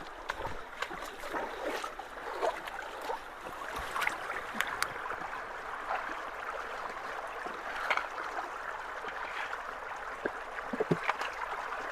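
Creek water trickling and gurgling through a partly blocked culvert as it starts to flow, with scattered knocks and clicks.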